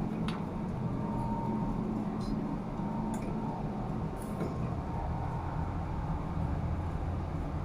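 Steady low machinery drone with a few faint clicks over it.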